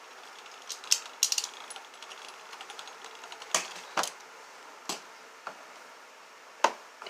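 Beyblade spinning tops launched into a plastic stadium and clashing: a quick run of clicks about a second in, then several sharp, separate clacks as the tops hit each other and the stadium walls.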